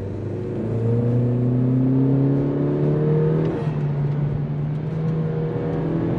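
Honda Civic 1.5-litre turbocharged four-cylinder accelerating, its engine and intake sound through a PRL short ram intake heard inside the cabin with the window up. The pitch climbs steadily, drops back about halfway through, then climbs again.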